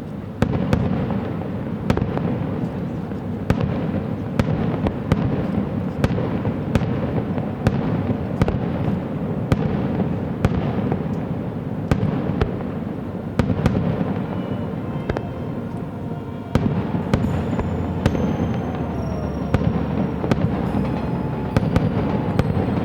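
Aerial fireworks display: a dense run of sharp bangs and crackles over a continuous booming rumble, with thin whistling tones joining in the later seconds.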